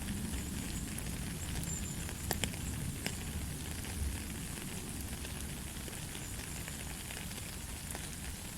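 Steady light rain falling, an even hiss over a low rumble, with a few sharper drop clicks about two and three seconds in.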